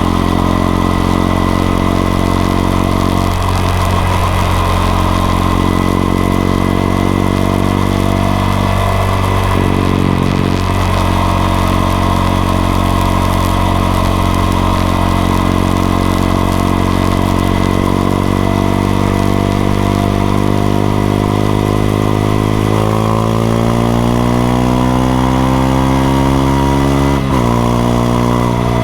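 Honda XRE 190's single-cylinder engine running under way, mostly at a steady pitch with a few brief dips. Near the end it revs up rising in pitch, drops sharply at a gear change and rises again.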